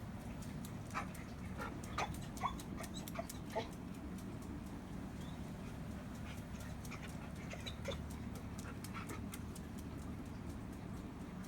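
Dog whimpering in short high squeaks, one cluster near the start and another a few seconds later, over a steady low hum.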